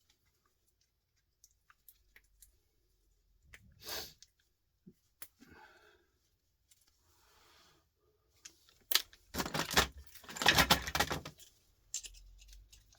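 Small metal and electronic scrap parts handled by hand: light clicks and a little scraping, then a loud clattering and rattling of loose metal pieces from about nine to eleven seconds in, as components are pulled off a circuit board and tossed into sorting piles.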